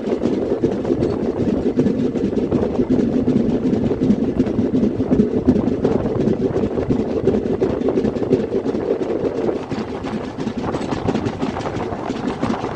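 Train running along the track: a steady rumble with a dense rattle of wheels on rail, easing a little about ten seconds in.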